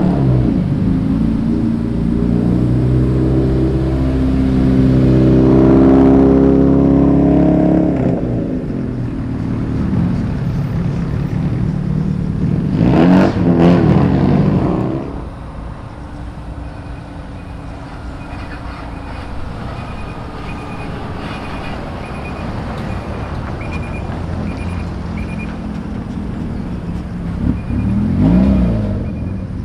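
Cars driving past one at a time, their engines revving as they pull away. A long rise in engine pitch comes in the first eight seconds, a loud pass about thirteen seconds in, and another pass near the end, with steady road and engine noise between.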